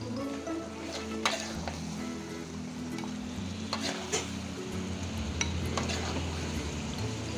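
Metal spatula stirring and scraping diced tempeh and beef skin in chilli sauce around an aluminium wok as it sizzles, with sharp clinks of the spatula against the pan, the loudest about a second in.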